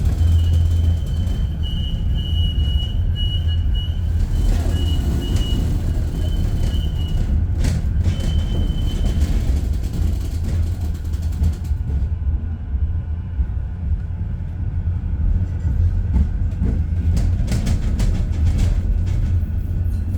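Manchester Metrolink tram running on its rails, heard from aboard: a steady low rumble, with a high wheel squeal coming and going over the first nine seconds or so. A run of sharp clicks from the wheels comes near the end.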